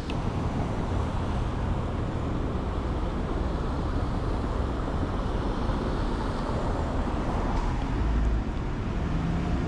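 Steady city street traffic noise, with a low rumble of passing cars.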